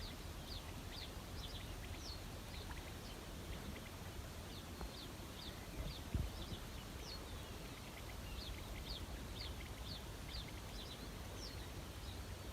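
Small birds singing: many short, high, falling chirps repeating throughout, over a low rumble of outdoor background, with one soft thump about six seconds in.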